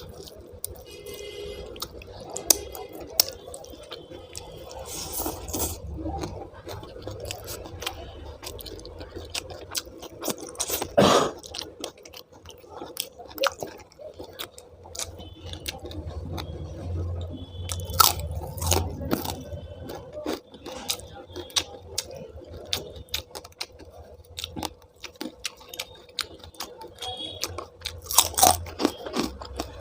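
Close-up eating sounds of green rice and dum aloo: wet chewing with scattered crunches and little clicks, and one louder burst about eleven seconds in.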